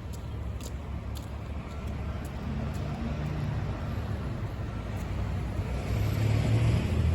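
Low engine rumble growing gradually louder, with a hiss that swells near the end, as of a motor vehicle drawing near.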